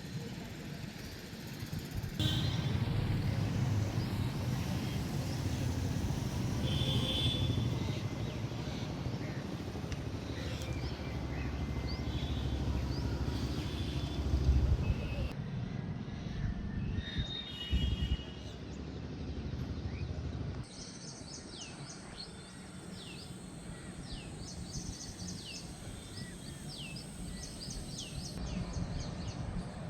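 Outdoor ambience: a low rumbling background noise with birds chirping over it, the chirps short falling whistles that stand out more clearly in the last third once the rumble drops, when a thin steady high tone also sounds.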